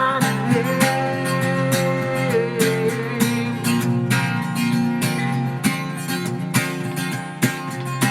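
Acoustic guitar strummed in steady rhythm through an instrumental passage of a song, with a held higher note over the chords for about the first two seconds.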